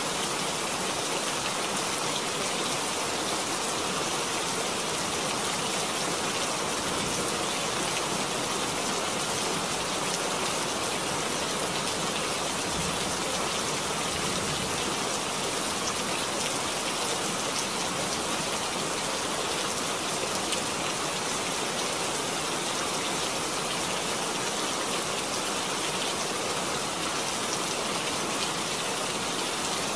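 Steady rain: an even, dense hiss of falling drops that does not change.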